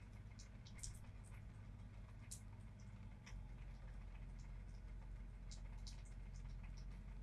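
Sparse raindrops and drips tapping in short, irregular ticks over a low, steady rumble, which grows a little louder about three seconds in.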